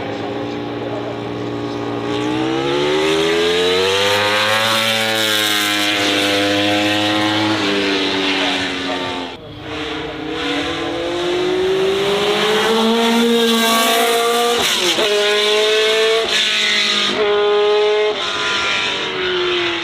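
Racing car engine under hard acceleration, its pitch climbing steeply, with a brief lift about halfway, then climbing again through a run of quick gear changes near the end, each a sudden drop in pitch.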